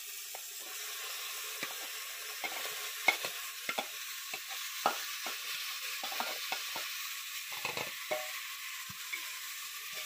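Marinated chicken sizzling steadily as it goes into hot mustard oil and browned onions in an aluminium pressure cooker. Irregular scrapes and knocks of a spoon and plate against the pot and of a ladle stirring, the sharpest about three seconds in.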